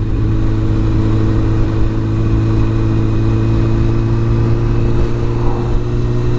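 Sport motorcycle engine running at a steady, unchanging speed, an even low hum with no revving.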